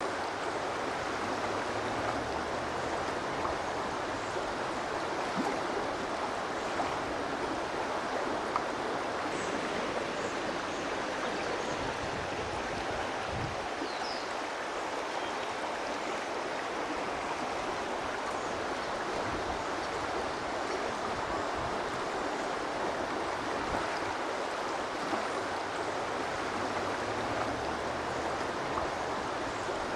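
Steady rush of flowing water, with a few faint high chirps near the middle.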